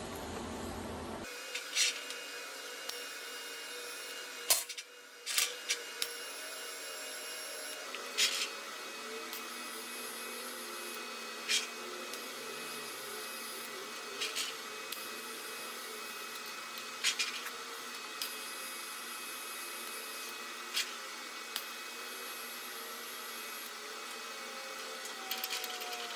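A steady machine hum with about a dozen short, sharp clicks and knocks of steel parts being handled and fitted in the workshop.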